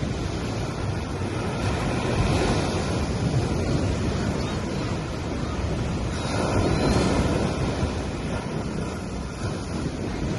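Small ocean waves breaking and washing up on a beach in a steady wash of surf, with one wave surging louder about six seconds in.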